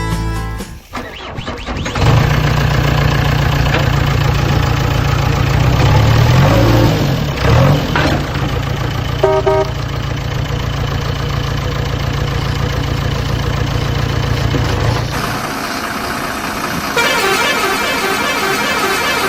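A heavy vehicle engine running steadily, with a few short horn toots about nine seconds in; the engine sound changes near the end.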